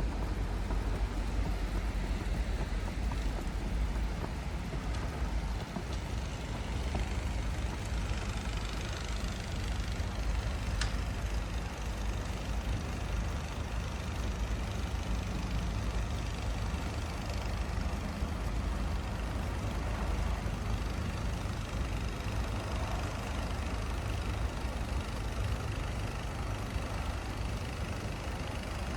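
Downtown street traffic: car, truck and bus engines running and passing in a steady low rumble, with one brief sharp click about eleven seconds in.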